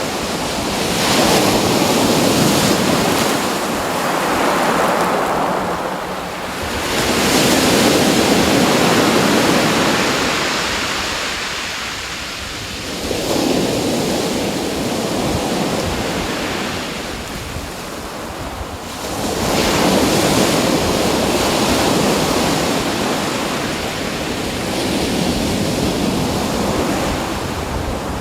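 Waves washing in and drawing back, a loud rushing that swells and fades about every six seconds.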